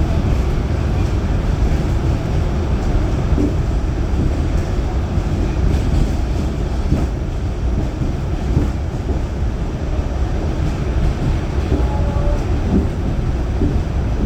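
Pullman Standard R46 subway car running at speed, heard from inside: a steady low rumble of wheels on rail with occasional faint knocks. A couple of brief faint squeals come near the end.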